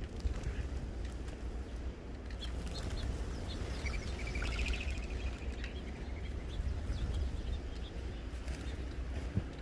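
Small birds at a feeder chirping, with short scattered calls and a brief rapid trill about halfway through, over a steady low rumble.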